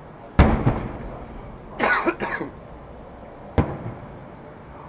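Aerial fireworks shells bursting: a loud bang about half a second in with a rolling tail, and another sharp bang a little before the end. Around two seconds in, a person coughs twice.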